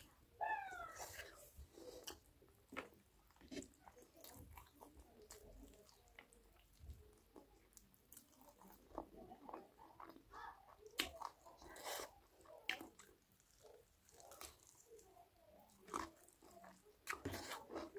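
Quiet close-up eating sounds: biting and chewing chicken curry, with irregular wet mouth clicks and smacks, and fingers tearing the meat apart. A brief pitched sound comes about half a second in.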